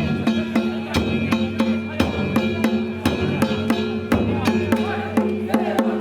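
Danjiri festival percussion: taiko drums and metal gongs struck in a fast, even rhythm of about four to five beats a second, the drum tone sounding under steady bell-like ringing.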